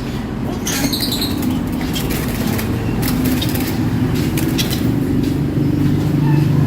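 Lovebirds fluttering their wings in a cage, with scattered clicks and a brief high chirp about a second in, over a steady low hum.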